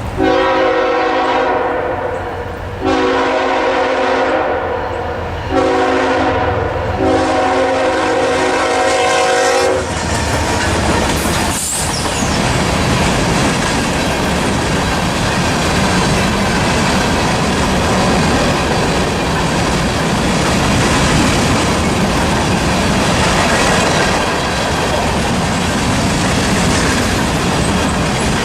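Canadian Pacific train's locomotive horn sounding the grade-crossing signal: long, long, short, long. The train then passes close by, with a steady rumble and the clickety-clack of wheels over rail joints.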